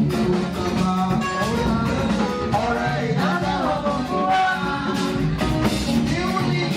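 Church praise music with live band and singing: a steady beat with drums, guitar and keyboard under voices singing.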